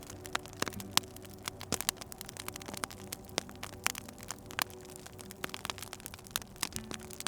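Wood fire crackling, with many irregular sharp pops and snaps over a soft hiss. A faint sustained low hum lies underneath.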